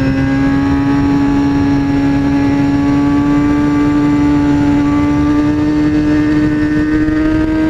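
2003 Kawasaki ZX-6R's inline-four engine pulling steadily in one gear, its pitch rising slowly as the bike gains speed.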